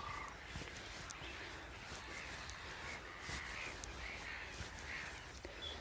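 A colony of black-headed gulls calling on and off, a string of harsh, scratchy calls, with a low wind rumble on the microphone.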